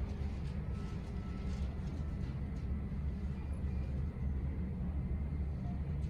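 Steady low rumble of airport terminal background noise, with a few faint clicks in the first couple of seconds.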